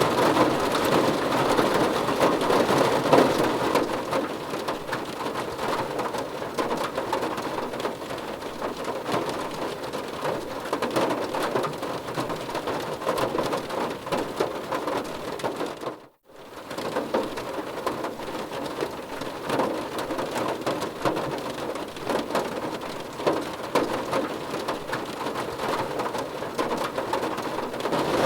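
Rain pattering on a car's roof and windows, heard from inside the car: a steady, dense patter of drops. About halfway through it dips out to near silence for a moment and then comes back.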